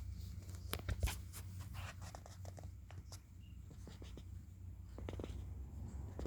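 Scattered light scratching and tapping clicks over a steady low hum, busiest in the first second and a half.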